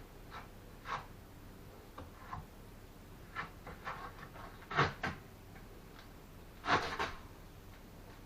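Bricklaying work: scattered short scrapes and knocks of a trowel, mortar and bricks, with two louder scrapes about five and seven seconds in.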